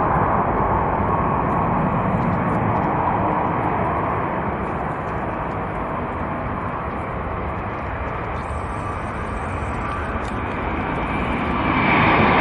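Airbus A350's Rolls-Royce Trent XWB jet engines at takeoff power: a steady, even roar that eases a little in the middle and grows louder again near the end.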